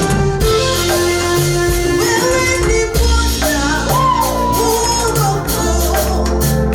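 Live praise music: a group singing over guitar, bass and drums, with a steady beat.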